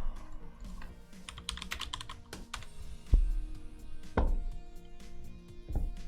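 A quick run of sharp clicks, then three dull thuds on a hard surface, over steady background music.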